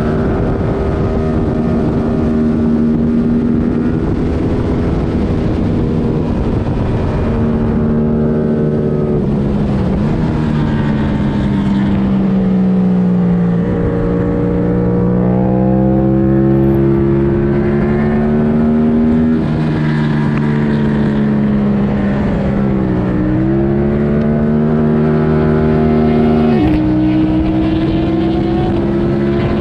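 2022 Yamaha R7's 689 cc parallel-twin, with airbox removed and a Mivv Delta Race exhaust, pulling hard on track: the engine note twice sinks slowly as the bike slows, then climbs again under acceleration, with a sudden drop in pitch near the end at an upshift.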